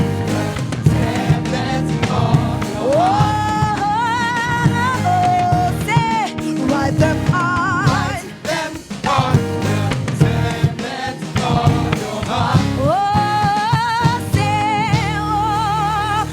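Live gospel praise song: singers swoop up into long held notes with a wavering vibrato, backed by a band with drums.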